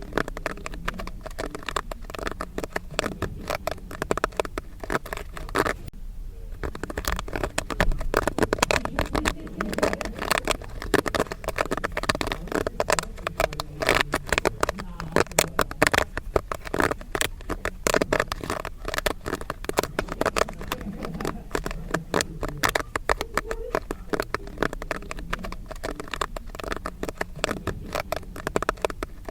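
Popcorn kernels popping in a rapid, dense crackle of many small pops, thinning briefly about six seconds in.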